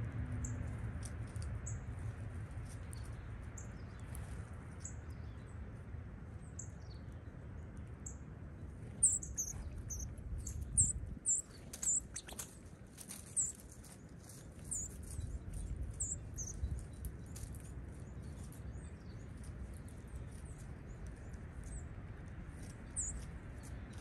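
Small songbirds calling: many short, high chips and tweets, with a busier, louder flurry of quick chirps in the middle, over a low steady background rumble.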